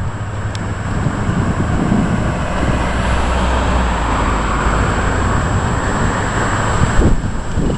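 Thunder rumbling low and continuously, swelling through the middle, with a sharp knock near the end.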